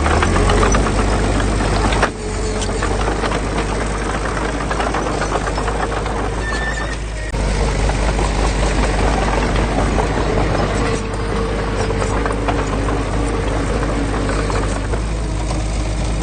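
Heavy construction machine's diesel engine running steadily with a low rumble and a busy clatter of rattling and clanking. The sound changes abruptly about 2 and 7 seconds in.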